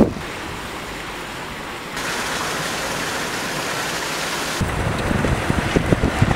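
Steady hiss of rain and running water, which turns abruptly louder and brighter about two seconds in and changes again near five seconds. Low gusty rumbling grows toward the end.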